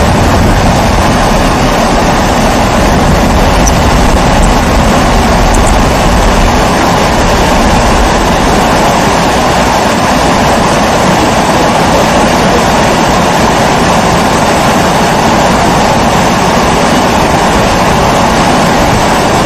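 Kerosene pressure stove (babour) burning, a loud, steady, even rushing noise with no break.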